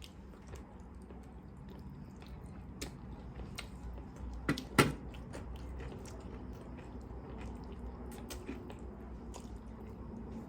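Chewing and biting into fried chicken lollipops: scattered short crunchy clicks, with two louder cracks close together a little before the middle.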